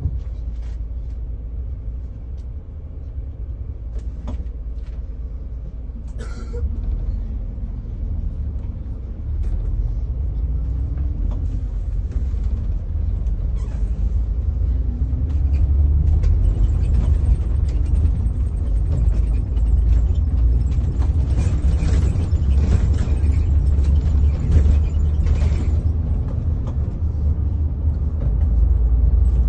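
Motor vehicles running and moving, a steady low rumble with engine notes that rise and fall and occasional clicks, getting louder partway through.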